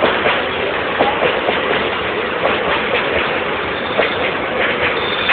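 Train passing by: a steady rumble and rattle of wheels on rails with irregular sharp clicks and clanks, and a thin high squeal coming in near the end.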